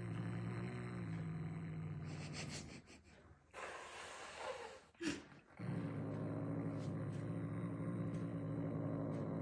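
A cat growling low and steadily. About three seconds in the growl breaks off for a short breathy hiss and a sharp sound, then starts again and holds: a frightened, defensive cat.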